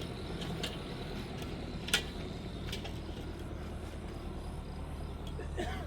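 A steady low hum under scattered sharp clicks and knocks, the loudest a single knock about two seconds in.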